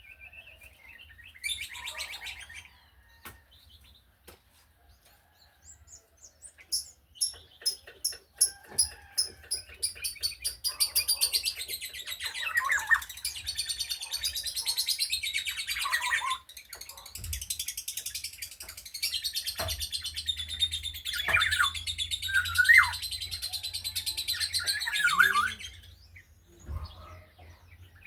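Black-naped oriole (kepodang) singing: scattered faint chirps, then about a quarter of the way in a run of quick high repeated notes that speeds up into a long, dense stretch of rapid, varied song with trills and whistled notes, stopping about two seconds before the end.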